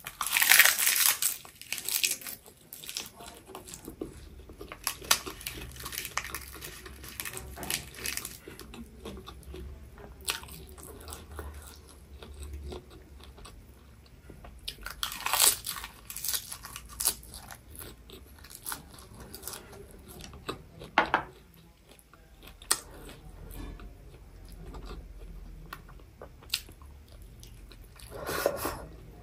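A person biting into seaweed wrapped around noodles and chewing, with a few sharper crunchy bites at intervals.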